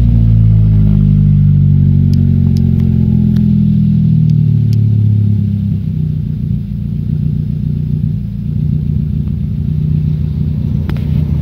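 Nissan Cube Z10 engine running through an RS-R aftermarket exhaust: an even drone for about five seconds, then settling into a rougher, more uneven idle. A few light clicks in the first half.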